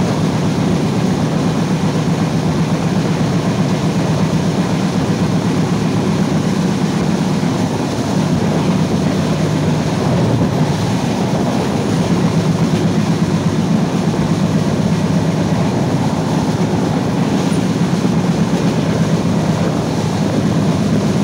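Bangladesh Railway passenger train running at speed, heard from an open carriage window: a steady rumble of wheels on the rails.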